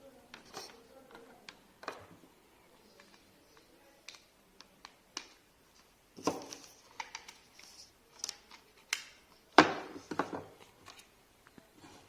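Scattered clicks and knocks of hard objects being handled and set down, irregular, with the loudest knock about nine and a half seconds in.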